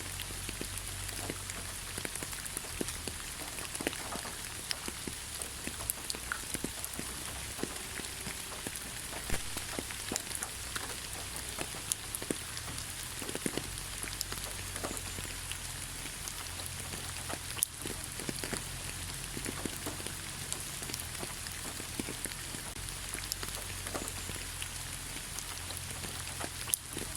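Soft rain falling on leaves, a steady patter with many separate drops ticking.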